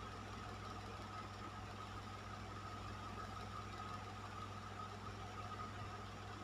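Fan running steadily: an even rush of air with a low hum and a thin, steady whine.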